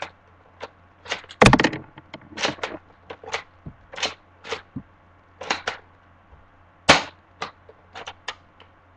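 Sharp mechanical clicks and clacks from a UHC Super 9 spring-powered bolt-action airsoft sniper rifle with a shell-ejecting system being worked by hand, irregular, with the loudest knocks about a second and a half in and about seven seconds in.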